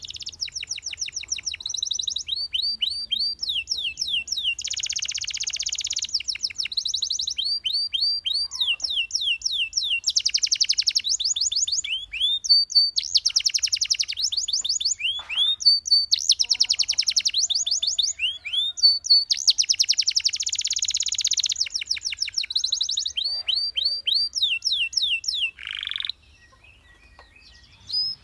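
Domestic canary singing a long song of fast trills and runs of repeated falling whistled notes, in phrases that change every second or two. The song breaks off about two seconds before the end.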